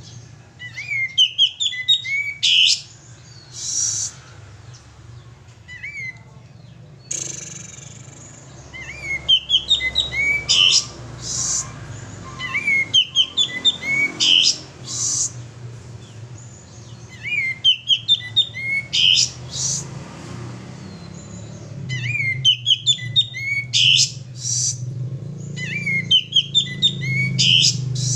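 Male sooty-headed bulbul (kapas tembak) singing: short bursts of quick, sliding chirps, a new phrase every three to four seconds, over a steady low hum.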